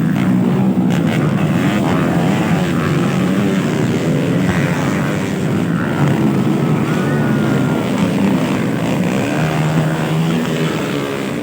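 Motocross dirt bikes racing, several engines revving up and down together.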